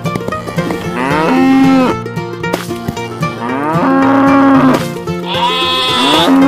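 Cow mooing sound effect: three long moos, each rising, holding and dropping away, over background music with a plucked string instrument.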